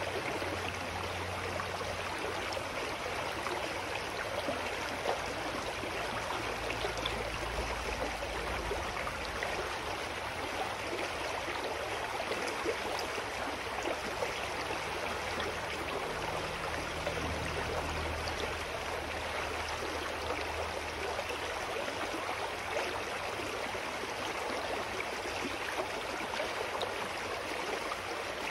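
Clear mountain stream flowing steadily over rocks, a constant rush of water.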